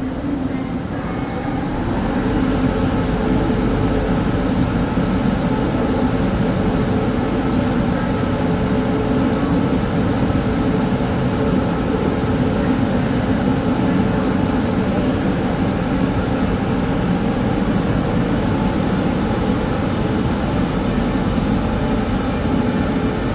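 Taiwan Railway train running on the track: a steady rumble with a held hum, growing louder about two seconds in and then staying even.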